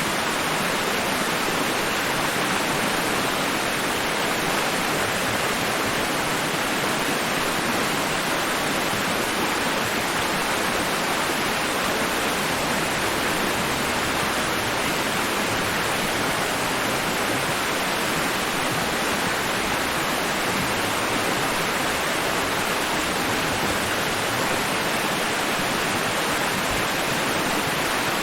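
Steady white-noise hiss for sleep: an even, unbroken rushing sound with no rise and fall of breaking waves.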